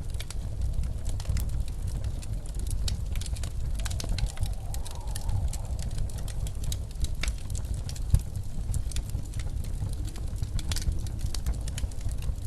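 Snowstorm wind blowing steadily with a low rumble, and a faint howl that rises and falls twice. Over it a wood fire crackles with frequent small pops, one louder snap about eight seconds in.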